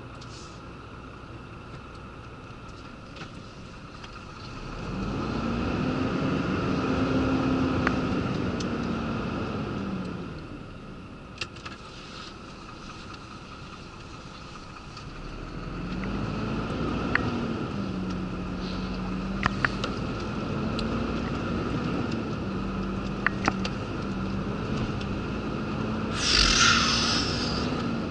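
Renault rigid lorry's diesel engine idling, then pulling away. The revs rise and fall through about five seconds of acceleration, drop back, then build again into steady running with brief dips at the gear changes. A short hiss comes near the end.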